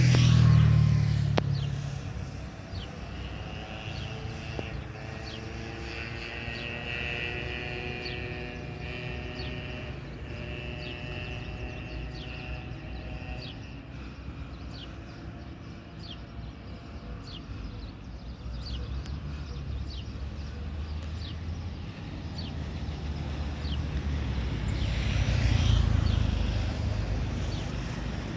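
Jet engines of a Boeing 737-800 running at a distance: a steady low rumble with a faint whine that drifts in pitch. A louder rush at the very start fades within about two seconds, and the rumble swells again about 25 seconds in.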